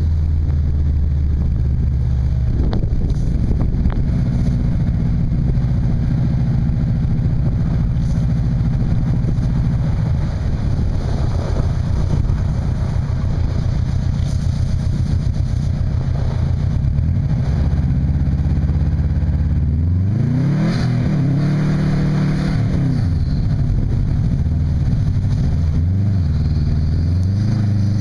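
2002 Subaru WRX's turbocharged flat-four engine running through a catless Invidia racing exhaust and downpipe, holding steady revs for most of the time. In the last several seconds it revs up and down repeatedly while the car drifts on snow.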